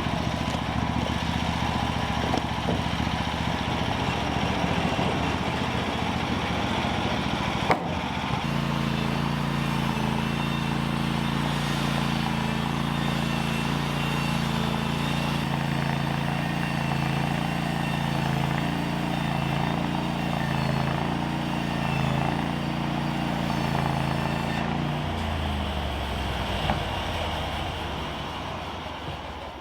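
A motor engine running steadily. About eight seconds in the sound breaks off and comes back as a steadier, deeper hum, which changes pitch again near the end.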